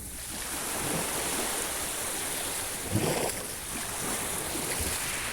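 Sea waves washing ashore, the noise swelling about half a second in, with one louder wave breaking about three seconds in.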